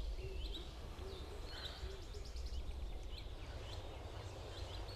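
Outdoor ambience: small birds chirping repeatedly over a steady low rumble, with a few soft low calls in the first two seconds.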